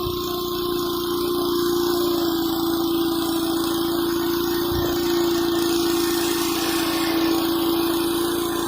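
Petrol pressure washer engine running steadily at constant speed under load, with the hiss of the high-pressure water spray on concrete.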